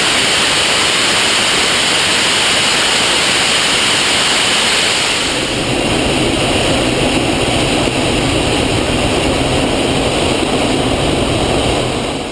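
Canadair CT-33 Silver Star jet with its Rolls-Royce Nene turbojet: a loud, steady rush of jet noise. About five and a half seconds in the sound turns deeper, and it falls away suddenly at the end.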